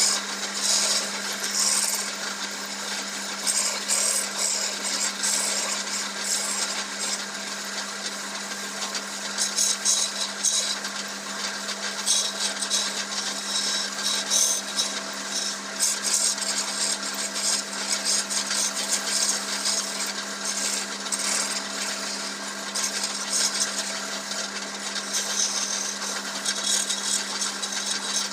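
Wood lathe motor running with a steady hum while a turning tool cuts the spinning wood, giving uneven bursts of high scraping and shaving.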